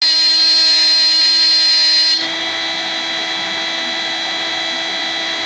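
Proxxon MF70 micro milling machine running under CNC control: a steady motor whine with several even pitches. About two seconds in it gets quieter, and the high, shrill part of the whine drops away while the lower tones keep going.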